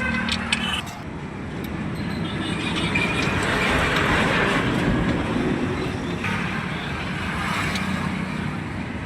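Road traffic noise, with a vehicle going by that swells and fades about three to five seconds in, and a weaker one near the end.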